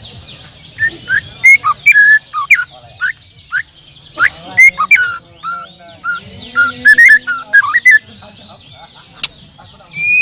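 Many caged songbirds singing at once: loud, varied gliding whistles and chirps over a dense, high, continuous twittering.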